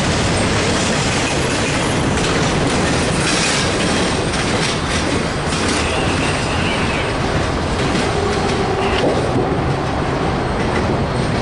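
Double-stack container freight train rolling past: a loud, steady rumble and clatter of steel wheels on the rails, with a faint wheel squeal around the middle.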